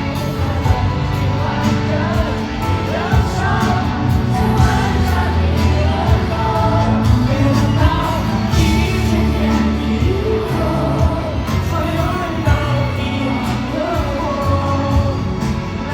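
Live pop ballad at a stadium concert: full band with strong bass under a sung melody.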